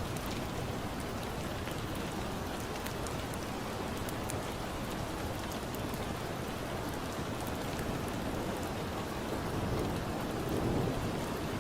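Steady rain with a crackling fire: a constant wash of rainfall with scattered sharp crackles, and a low thunder rumble that swells near the end.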